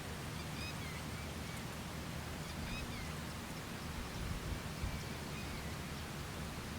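Outdoor ambience: a steady background hiss and low hum with a few faint, short bird chirps scattered through it.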